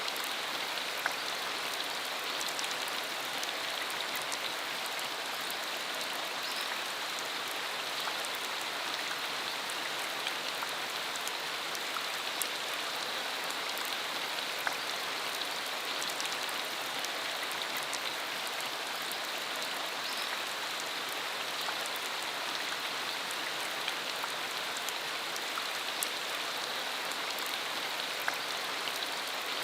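Steady rain shower: an even hiss of rainfall with many single drops ticking sharply close by.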